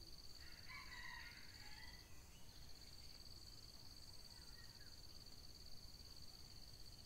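Faint bird calls, mostly from about half a second to two seconds in, over a steady high-pitched insect drone that breaks off briefly about two seconds in.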